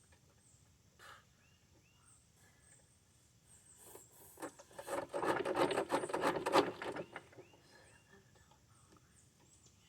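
A rapid rasping, clicking scrape lasting about three seconds, from hand-tool work on a lawn mower engine as its control cables are removed.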